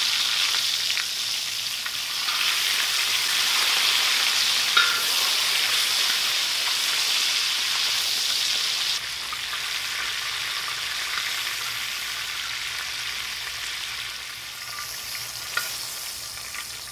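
Link sausages frying in hot bacon grease in a steel plow-disc discada: a steady, dense sizzle that eases off a little after about nine seconds. A couple of sharp clicks of metal tongs against the disc, one about five seconds in and one near the end.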